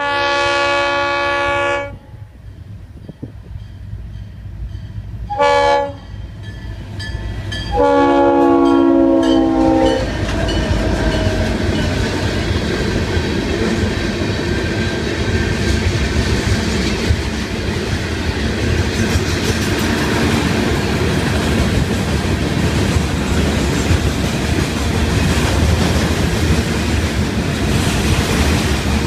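Freight locomotive air horn sounding three blasts for a grade crossing: long, short, then long. Then the steady rumble and wheel clatter of the freight cars rolling past.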